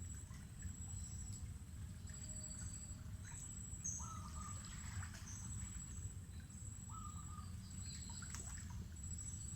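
Mangrove forest ambience: a high insect trill pulsing on and off about once a second, a bird repeating the same short call three times about three seconds apart, and scattered high chirps, over a low steady rumble.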